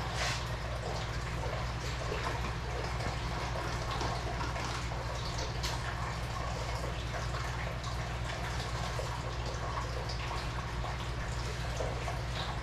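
Steady running, trickling water with scattered small drips and ticks over a low, constant hum.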